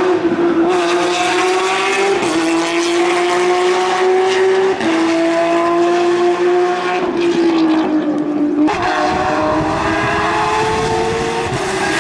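Porsche rally car's engine pulling hard under acceleration: its pitch climbs steadily and then drops at each upshift, about four gear changes.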